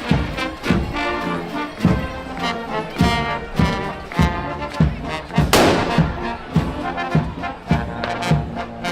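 A marching brass band playing a tune over a steady drum beat, about one stroke every 0.6 seconds. About five and a half seconds in there is a loud sharp crash or bang.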